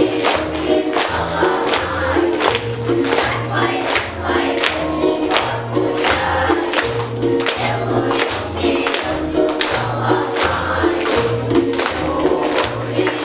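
Children's choir singing in unison over a backing track with a steady drum beat and a repeating bass line.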